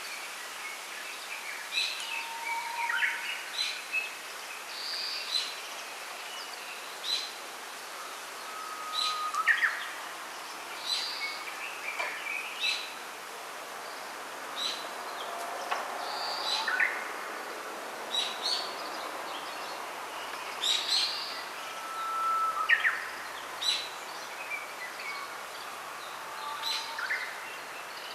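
Small songbirds singing and calling: short high chirps about once a second, and now and then a longer whistled note that holds steady and then sweeps sharply upward, over a faint steady hiss of the grove.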